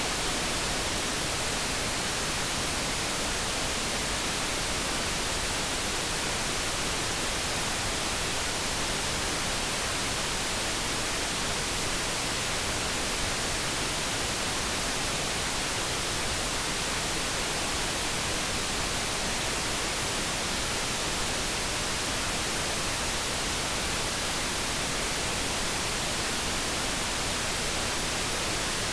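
Steady generated light brown noise: an even, unchanging hiss with no tones or events in it.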